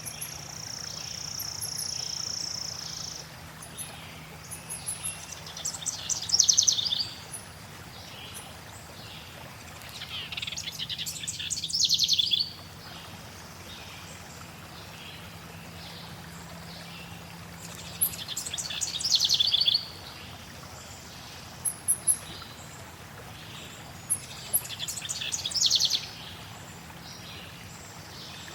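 A songbird sings four loud trilling phrases, each building up and stopping abruptly, roughly every six seconds, over a steady background of flowing water. A high, held whistle-like note runs through the first three seconds.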